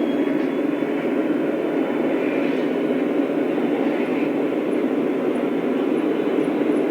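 Lionel O-scale model train running on its track: a steady rumble of wheels and motor.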